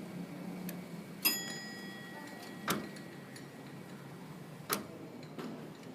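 A few separate sharp clicks and knocks, irregularly spaced, over a steady low background hum. The loudest, about a second in, leaves a short metallic ring.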